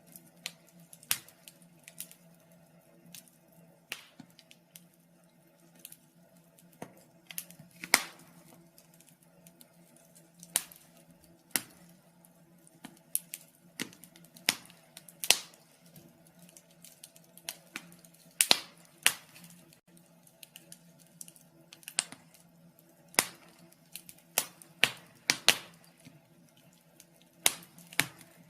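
Wood fire burning in a fireplace, crackling: irregular sharp pops and snaps, a few much louder than the rest, over a faint steady hum.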